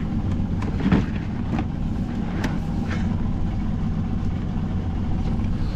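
Small boat's outboard motor idling steadily, with a few short clicks and knocks over it, about one, two and a half, and three seconds in.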